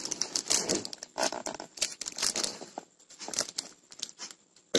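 Parcel packaging crinkling and tearing in irregular bursts as it is handled and opened.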